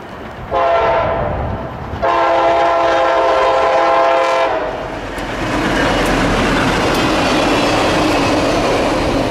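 Train locomotive air horn sounding two blasts, a short one and then a long one of about two and a half seconds. The horn is followed by the rumble and clatter of the train's wheels on the rails as it goes by.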